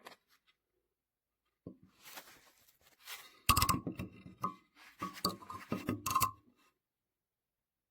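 A run of knocks and ringing clinks from hard objects being handled and set down, loudest about three and a half seconds in and again near six seconds.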